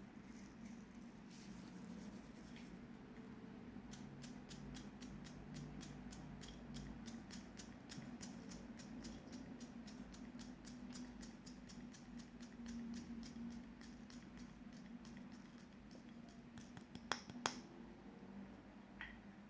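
Clear slime being kneaded and pressed with small crystals mixed in, giving a steady run of crisp clicks and pops, about three a second. The clicking starts a few seconds in and stops near the end, with two louder clicks at its close.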